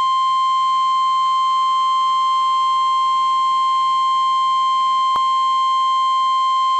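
NOAA Weather Radio warning alarm tone: a single loud, steady tone of about 1050 Hz, held unbroken. It signals that a weather alert message is about to be read. A faint click comes about five seconds in.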